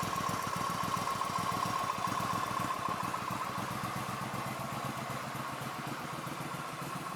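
Suzuki VS1400 Intruder's V-twin engine idling steadily.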